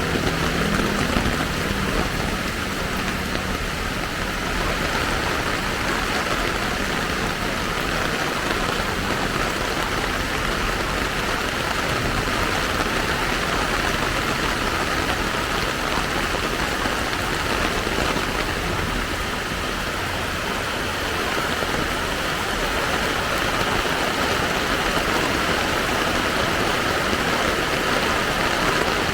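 Steady rain falling, an even hiss that runs unbroken. A low engine hum from a passing vehicle fades out in the first couple of seconds.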